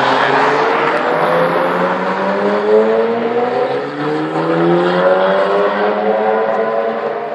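Ferrari sports car engine as the car passes close, then pulling away with its note rising slowly and steadily.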